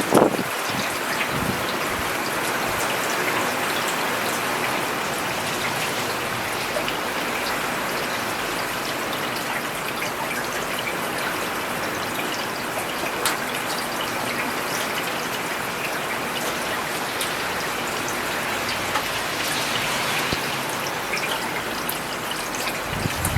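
Steady rain falling on a road surface, a dense even hiss with individual drops tapping through it. A brief low thud comes right at the start.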